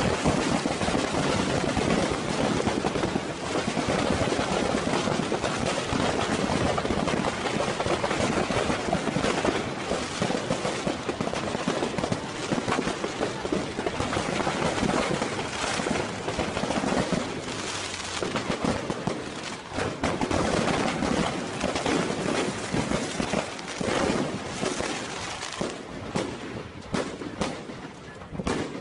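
Fireworks stock of a burning fireworks factory going off: a dense, continuous crackle of rapid bangs and pops overlapping one another, thinning out near the end.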